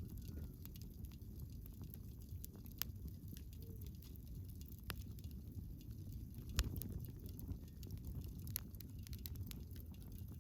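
Wood campfire burning: a steady low rush with scattered crackles and pops, one sharper pop about six and a half seconds in.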